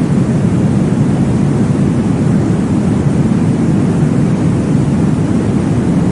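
Baby-sleep womb-style noise: a steady, deep whooshing hiss, heaviest in the low range, with no audible beat or change.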